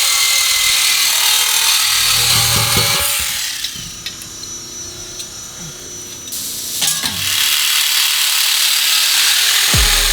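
Power tools and a ratchet at work on a car's exhaust system, loud and harsh, easing off for a few seconds in the middle. A deep bass beat comes in near the end.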